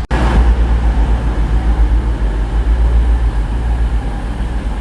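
A train pulling into a station platform: a steady low rumble, after a brief dropout right at the start.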